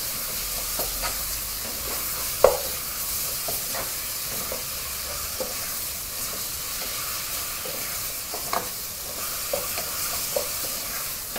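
Carrots and tomatoes frying in a pot with a steady sizzle while a wooden spoon stirs them, knocking against the pot now and then, most sharply about two and a half seconds in.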